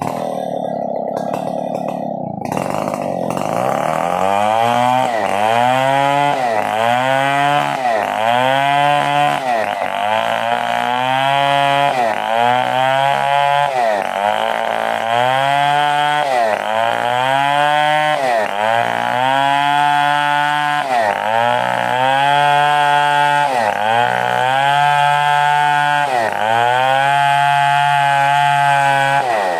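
Stihl 070 chainsaw's big single-cylinder two-stroke engine running hard. Its note sags and climbs back up again and again, about every second and a half, as the engine is loaded and recovers in the cut.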